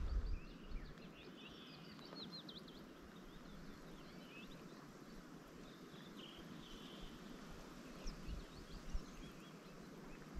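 Small birds chirping, with short rising and falling calls scattered throughout, over a faint steady hiss of outdoor background noise.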